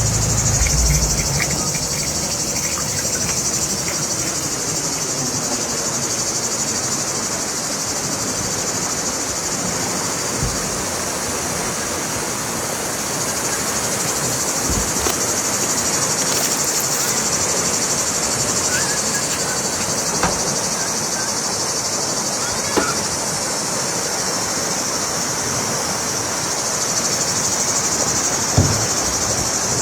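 Steady high-pitched insect chorus in the countryside, over an even background hiss, with a few brief soft knocks.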